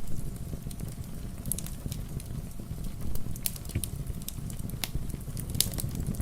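Fireplace wood fire crackling, with sharp irregular pops over a steady low rumble, and rain pattering.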